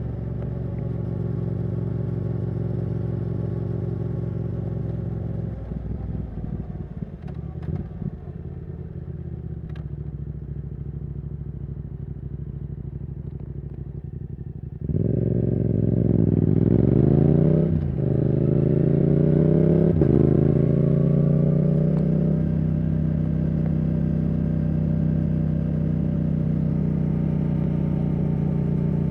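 Yamaha R7's CP2 parallel-twin engine through a Yoshimura R77 exhaust, running steadily at cruise. About halfway through it gets suddenly louder under hard acceleration, the pitch climbing, breaking twice as it shifts up, then holding steady.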